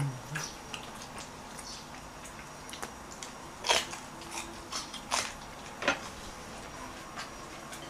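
Close-up mouth sounds of someone eating grilled pork belly: chewing with scattered wet smacks and clicks, the sharpest ones about four, five and six seconds in.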